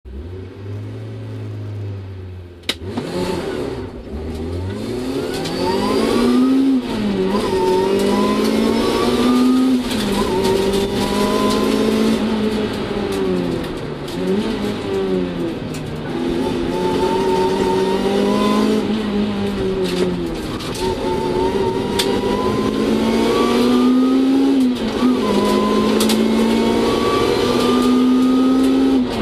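Supercharged seventh-generation Toyota Celica's engine heard from inside the cabin: idling at first, then pulling away hard about three seconds in. Its pitch climbs and drops back several times as it accelerates through the gears.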